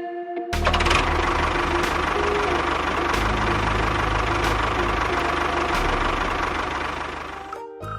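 A small engine running steadily, starting about half a second in and stopping abruptly shortly before the end.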